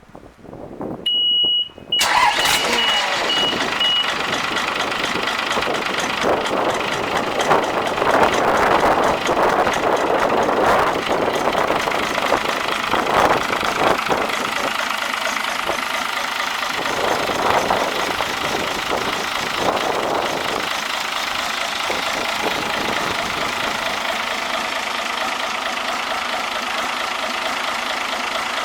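Isuzu UM6BG1TCXD turbocharged six-cylinder marine diesel cranked over and starting about two seconds in, a high warning beep sounding during cranking and pulsing for a couple of seconds after it catches. It then runs, revved up several times, and settles to a steady idle for the last several seconds.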